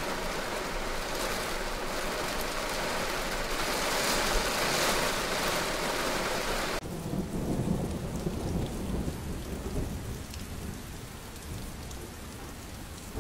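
Steady hiss of rain and of wet traffic on a road covered in hail and slush. About seven seconds in it cuts off abruptly, giving way to a lower, rumbling noise that slowly fades.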